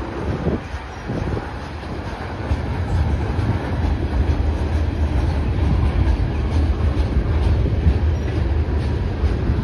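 Freight train's tank cars and covered hoppers rolling past: a steady low rumble of steel wheels on rail with faint clicks, getting louder a few seconds in.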